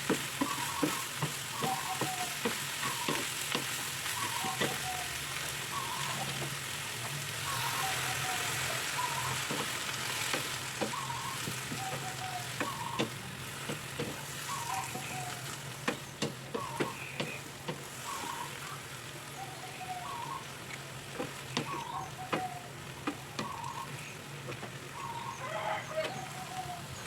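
Food stir-frying in a pan: a steady sizzle with frequent sharp clicks and scrapes of a spatula against the pan. Throughout, a short two-note chirp repeats about once a second.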